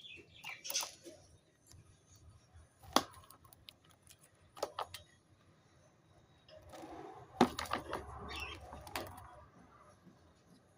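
Pet budgies moving about, making sharp clicks and taps and some rustling, with a few short, faint chirps near the start.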